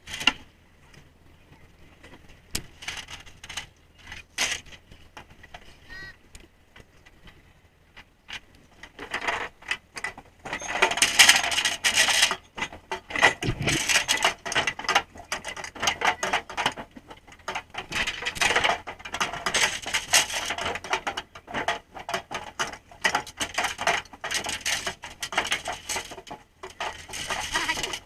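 Rapid, irregular clattering and crackling on the deck of a trawler, starting about nine seconds in after a few scattered knocks, over the low steady hum of the boat's engine.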